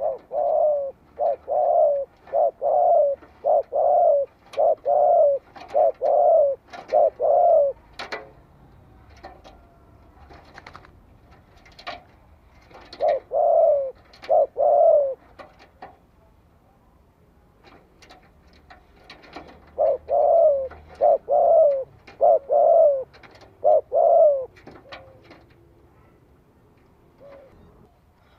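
Spotted dove cooing in quick bouts of short coos, about two a second, with pauses between bouts. This is the challenge call of a decoy dove used to provoke wild doves into answering. Faint high chirps sound between the coos.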